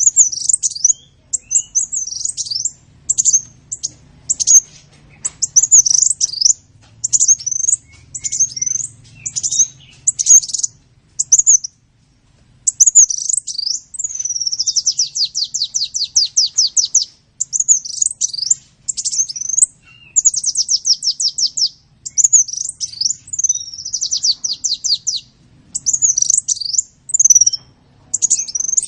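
A sunbird (the 'kolibri' of Indonesian bird-keeping) singing continuously. It gives quick, high-pitched chirping phrases broken by several fast, rattling trills, the longest lasting a few seconds around the middle.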